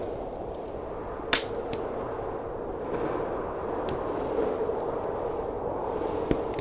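Wood fire crackling with a few sharp pops, the loudest a little over a second in, over the steady rushing noise of blizzard wind.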